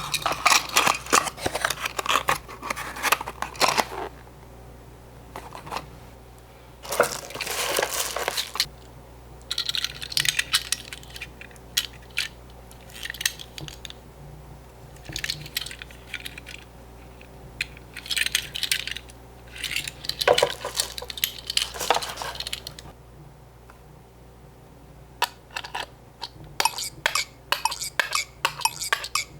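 Tomica die-cast toy cars being handled and packed into their small cardboard boxes: bursts of small metal clicks and clinks with some scraping of card, separated by short pauses. A fast run of clicks comes near the end.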